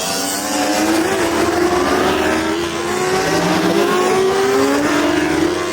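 Superbike racing motorcycle engines at full throttle, accelerating up through the gears: the engine note climbs steadily and drops back at each upshift, several times in a row.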